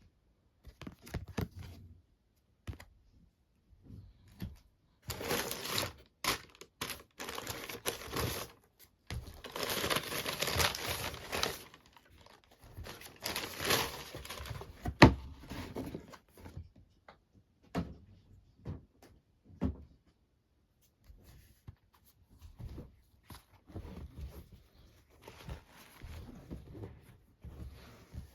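Shoe box packaging being handled and unwrapped: crinkling, rustling and light tapping in bursts, with one sharp knock about fifteen seconds in.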